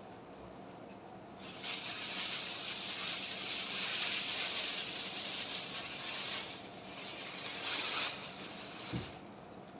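Packaging being handled: a long rasping rustle of about six seconds, swelling near the end, then a short low thump.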